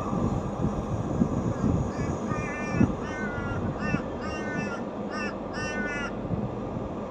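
A bird calling about six times in quick succession, short pitched calls starting about two seconds in, over the low steady rumble of a diesel locomotive.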